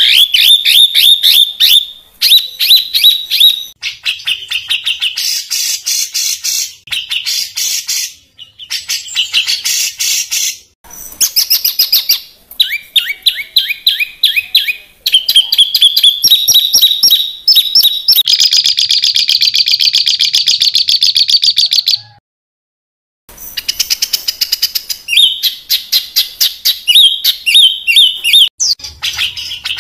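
Songbird singing harsh, rapid 'tembakan' phrases: fast runs of sharp repeated high notes and chattering trills in loud bursts, broken by short pauses and a gap of about a second about three-quarters of the way through.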